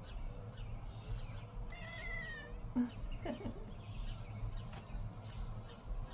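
Domestic cat meowing: one drawn-out, slightly falling meow about two seconds in, followed by a couple of short lower calls a second later.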